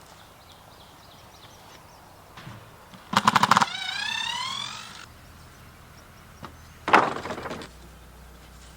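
A wooden frame being pried apart by hand: a burst of cracking wood that runs into a rising squeal, then a second crack about four seconds later.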